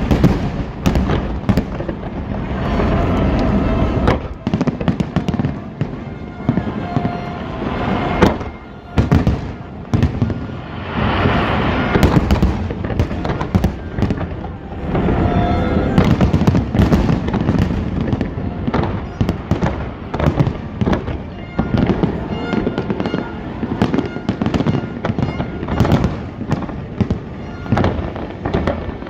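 Fireworks display: a rapid, continuous barrage of aerial shell bursts, the bangs overlapping with crackling, loud throughout.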